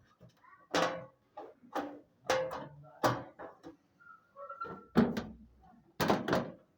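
A series of sharp, irregular knocks and clatters, roughly one every half second to second, the strongest about five and six seconds in.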